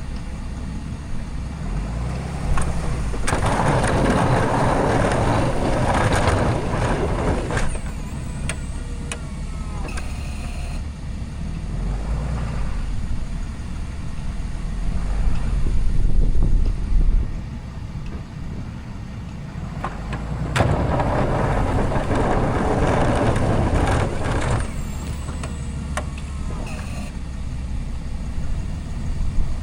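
Cummins diesel pickup truck running steadily, with two stretches of louder rushing noise, each lasting about four seconds, laid over the engine.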